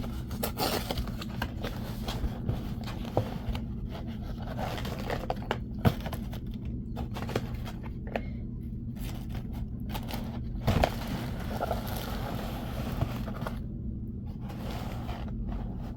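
Takeout food containers and packaging being moved and set out on a table: scattered scrapes, clicks and knocks over a steady low hum.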